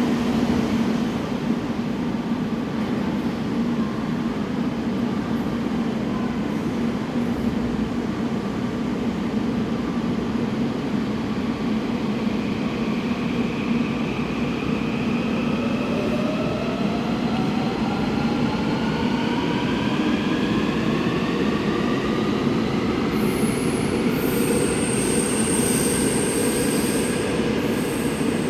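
Incheon Subway Line 1 electric train pulling out of a station, its steady running rumble joined about halfway through by traction-motor whines that rise steadily in pitch as it accelerates. A thin high tone comes in near the end.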